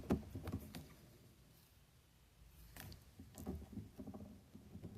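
Faint rustling and light taps of tarot cards being handled, broken by a short near-silent stretch about a second in.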